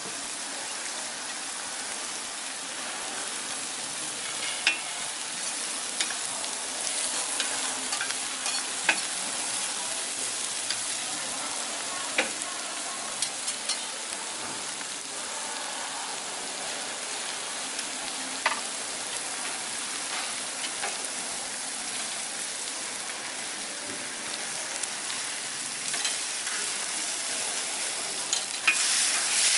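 Thin meat cutlets and vegetables sizzling in oil on a flat steel teppanyaki griddle: a steady frying hiss with scattered sharp clicks and taps, getting louder near the end.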